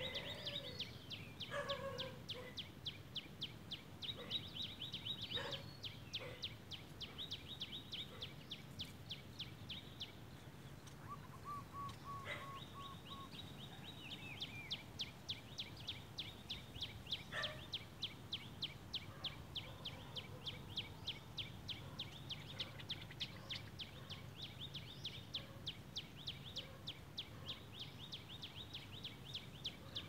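Birds calling: long runs of short, evenly repeated high notes, several a second, which break off briefly midway and then resume. A few lower calls sound near the start, over a steady low outdoor hum.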